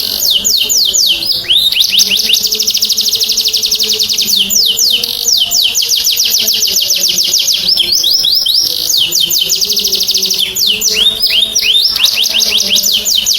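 Domestic canary singing in full song: long, fast trills of rapidly repeated downward-sweeping high notes, switching to a new trill every second or two with brief breaks between phrases.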